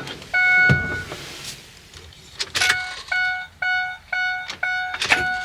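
Vehicle warning chime beeping with the door open: one tone early, then a steady run of beeps about twice a second, with a few clunks in between.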